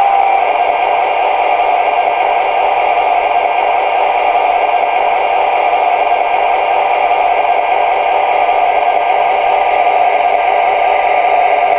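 MTH Premier SD24 model diesel locomotive and its freight cars running along the track: a loud, steady rolling clatter of wheels with a steady motor hum.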